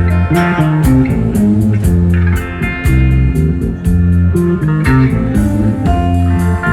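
Live country band playing an instrumental passage: electric guitar lead over bass guitar and a steady drum beat.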